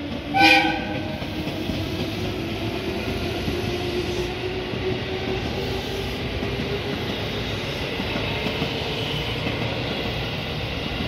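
A JR West 221 series electric train sounds one short horn blast about half a second in. It then runs past close by with a steady rumble of wheels on rail and a faint steady motor whine.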